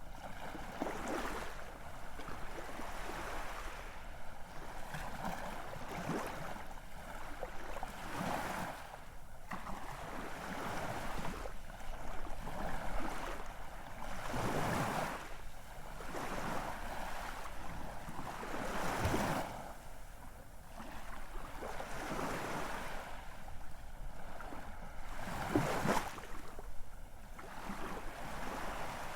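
Ocean waves breaking and washing on a shore, the surf swelling and falling back in surges every few seconds, with no music.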